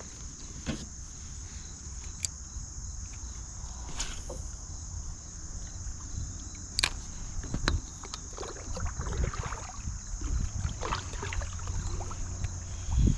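Steady high drone of summer insects, with kayak handling noises: scattered sharp clicks and knocks, a busier run of small knocks and rustles in the second half, and a louder thump near the end.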